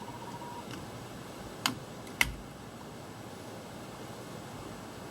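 Two sharp metal clicks about half a second apart as a hose clamp is fitted onto a coolant hose, over a steady low background hiss.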